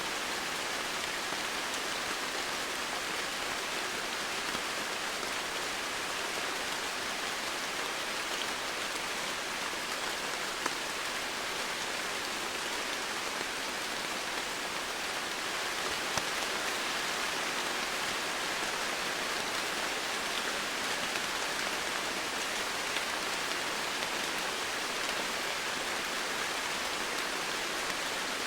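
Steady rain falling, a continuous hiss with occasional faint drop ticks.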